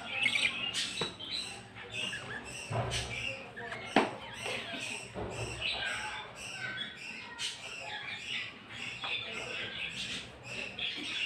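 Pet cage birds chirping and chattering continuously in many short, high calls, with a few sharp clicks in between.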